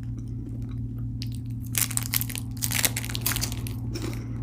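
Crunching and crackling of a hazelnut wafer chocolate bar being bitten and chewed close to the microphone, in bursts through the middle and again near the end, over a steady low hum.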